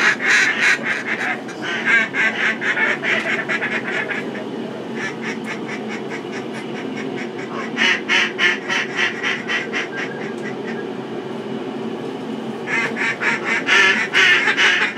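Duck quacking in fast runs of short, rapid notes: four runs, the second fainter, with short gaps between them.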